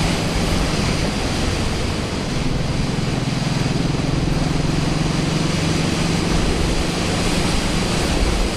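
Suzuki Boulevard C90 motorcycle's V-twin engine running steadily while riding, under loud rushing wind noise; the engine note shifts about two seconds in.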